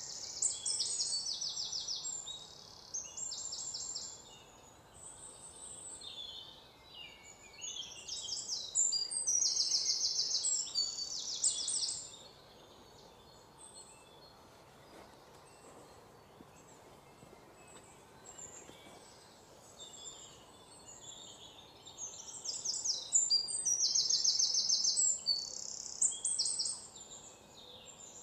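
Songbirds chirping in three bouts of rapid, high, trilled calls, with quieter stretches of faint steady background noise between them.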